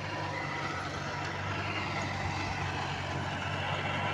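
Diesel engine of a New Holland Simba 30 mini tractor running steadily.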